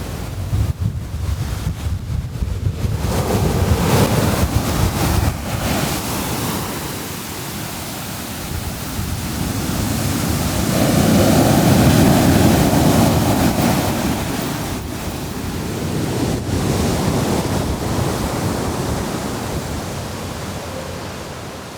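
Surf breaking on a beach in strong wind, with gusts buffeting the microphone in the first few seconds. A large wave swells and washes in about halfway through, then eases off.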